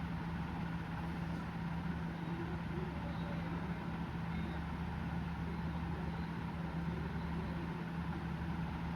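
Steady low hum over a constant background hiss, unchanging throughout.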